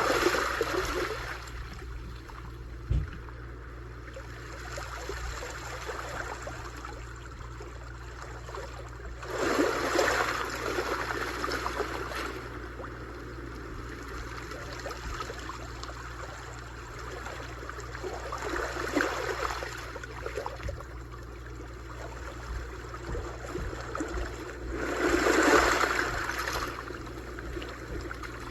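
Sea waves washing onto the shore: a steady wash of water that swells into a louder surge and falls back four times, every six to ten seconds. A brief knock sounds about three seconds in.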